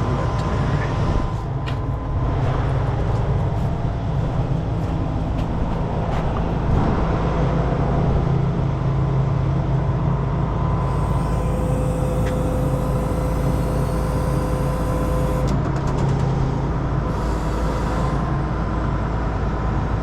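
Heavy truck's diesel engine running steadily, with a steady higher whine for about four seconds in the middle and a few light clicks.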